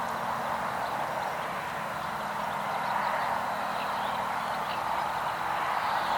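Dense, steady chorus of many frogs calling together, with faint short high calls over it.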